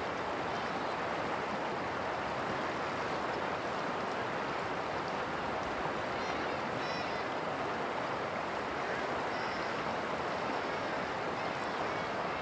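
Steady, even rush of flowing river water, with a few faint high chirps now and then.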